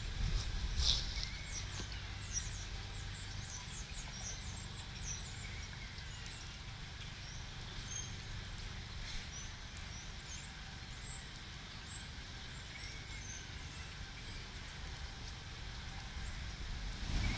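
A large flock of birds calling all at once: a steady scatter of short, high chirps and squeaks, over a low rumble.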